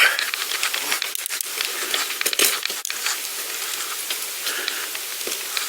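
Crackling, hissing rolling noise of a pedal bike being ridden, with scattered clicks and rattles.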